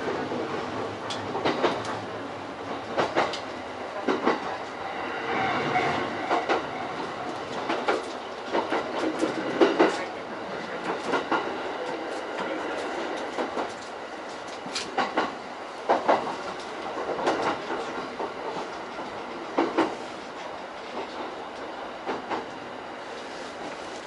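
E231-series electric train heard from inside its leading car as it runs slowly into a station, its wheels clacking and knocking over rail joints and points. The running noise grows weaker about halfway through as the train slows.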